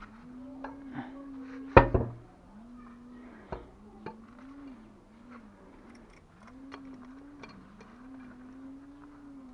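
A pigeon cooing in a continuous low, wavering call that rises and falls. A few sharp knocks break in, the loudest about two seconds in.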